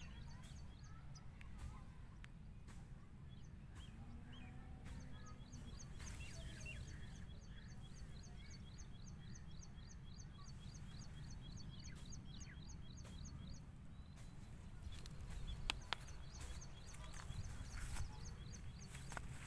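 A small bird calling in a fast run of high chirps, about five a second, through the middle, over a steady low rumble. A few sharp clicks or knocks come near the end.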